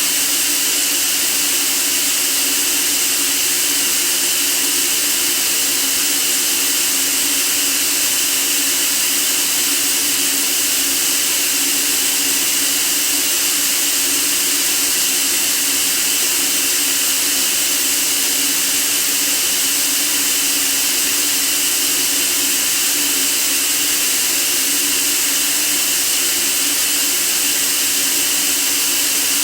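Steady white noise for sleep: an unchanging hiss, brightest in the treble, with a faint hum band underneath.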